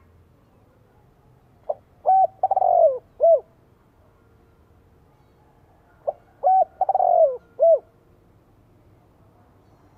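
Spotted dove cooing: two call phrases about four seconds apart. Each is a few short coos, a long coo that falls in pitch, and a last short coo.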